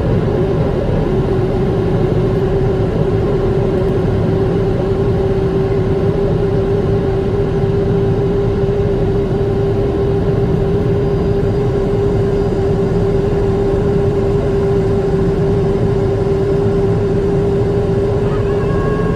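Jet airliner engines heard inside the cabin: a loud, steady roar with a steady droning hum. Near the end a few higher steady tones come in.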